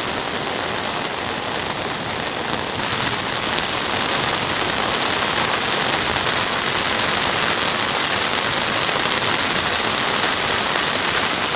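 Heavy rain pouring down in a steady, dense hiss that grows slightly louder about three and a half seconds in.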